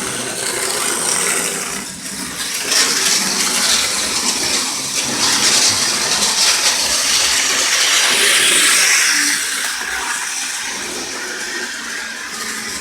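HO-scale model train running on its track, a steady hissing rattle of wheels and motor that grows louder about three seconds in and eases off again after about nine seconds.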